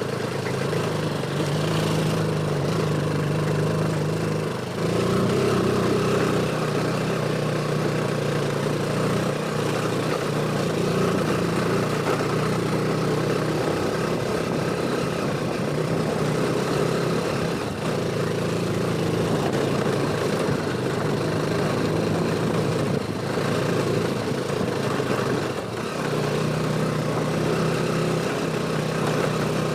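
Motorcycle engine running steadily as it is ridden, under a steady hiss. The engine note shifts about five seconds in and again near the end.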